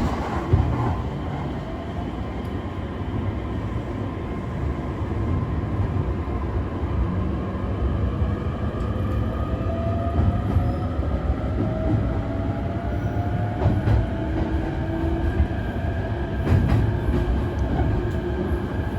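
E531 series electric train running, its Hitachi IGBT-VVVF inverter and traction motors whining in several tones that climb slowly in pitch as the train gains speed, over a steady rumble of wheels on rail. A few short clicks from the wheels come near the end.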